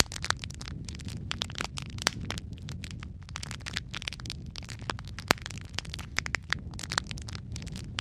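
Wood fire crackling in a fireplace: a steady low rumble of flames with dense, irregular snaps and pops, a few sharper pops standing out, the loudest a little past halfway.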